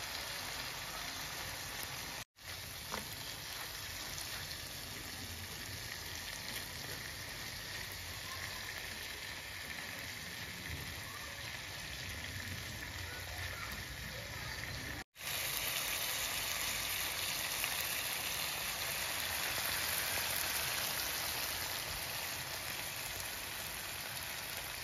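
Chili-tomato sauce with salted fish sizzling steadily in a frying pan, breaking off for an instant twice.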